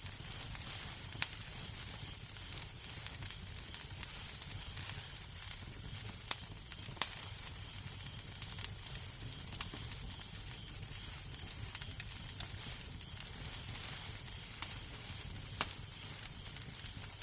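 Wood fire crackling in a fireplace: a steady hiss with sharp pops scattered through it, a few loud ones among many small ticks, over a low steady rumble.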